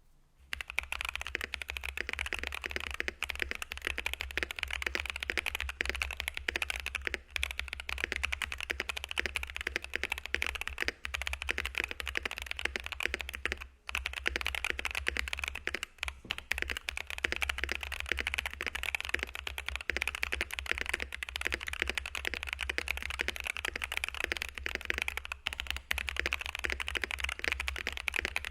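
Fast, continuous typing on a Keydous NJ81 mechanical keyboard with stock Zuoce 62g tactile POM switches, dye-sub keycaps, modded stabilisers and PE and case foam. It begins about half a second in, a dense run of keystrokes with a few brief pauses, over a steady low hum.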